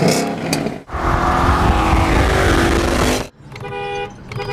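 A loud car engine and exhaust running for a couple of seconds, cut off abruptly. A car horn then sounds as a steady held tone near the end.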